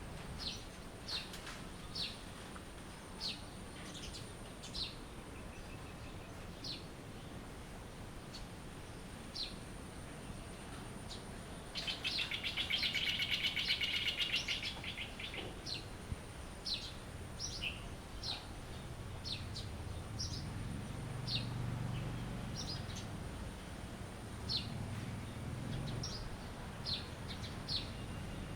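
Wild birds chirping, short high calls scattered throughout. About twelve seconds in, a louder rapid buzzing trill runs for about three seconds, over a faint steady high-pitched whine.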